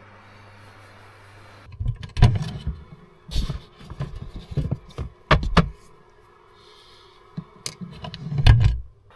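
Irregular knocks, thumps and clatters of things being handled and set down inside a camper van, starting about two seconds in, the loudest thump near the end, over a steady low hum.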